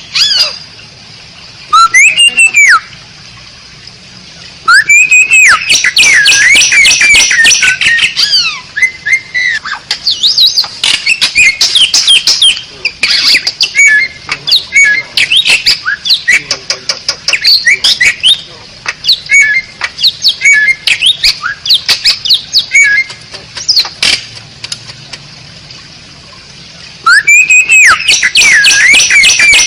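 Asian pied starling (jalak suren) singing a loud, varied song of whistles that glide up and down, mixed with rapid clicking and chattering, with a couple of short pauses.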